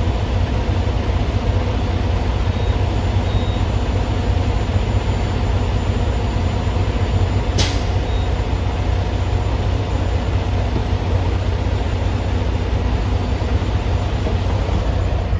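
Tractor-trailer truck's diesel engine running steadily, with one short hiss of air about halfway through.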